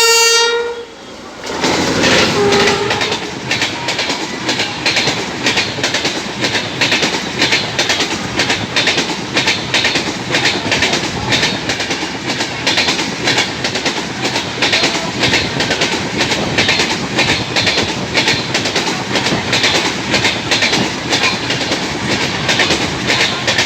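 An LHB passenger train passing at speed close by: a long, loud run of rapid, evenly repeating wheel clicks over the rail joints. It starts about a second and a half in and begins to fade right at the end.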